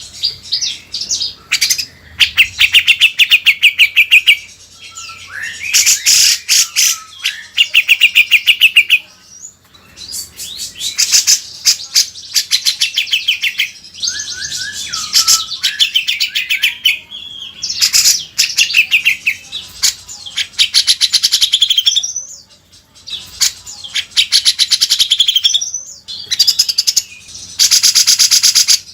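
Loud songbird song of the kind used as a bird-training (masteran) recording: fast chattering trills and rattling phrases, one after another with short pauses, some bright whistled notes among them.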